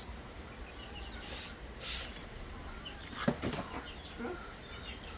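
Faint short bird chirps, with two brief rustling hisses a little over a second in and a single knock a little past the middle.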